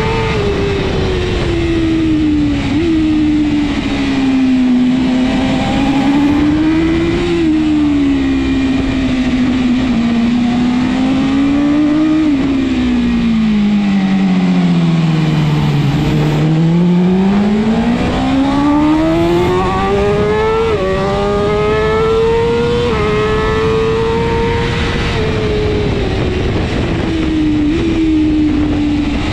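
BMW S1000RR superbike's inline-four engine at race pace. The revs swing up and down through the gears, with sudden steps in pitch at the gear changes. About halfway they drop to their lowest as the bike slows for a corner, then climb steadily through the upshifts.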